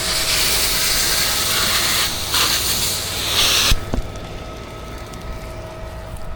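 Pressure washer spraying water with a loud, even hiss that cuts off suddenly a little under four seconds in, as the spray stops. After that the pressure washer's engine keeps running with a steady hum.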